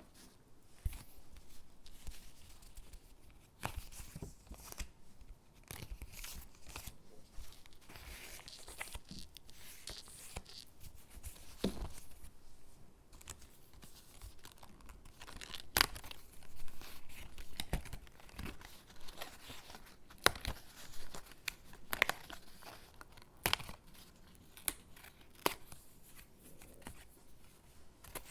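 Stickers being peeled off their backing sheet and pressed onto paper cutouts: short tearing peels and paper rustles with irregular sharp ticks and taps.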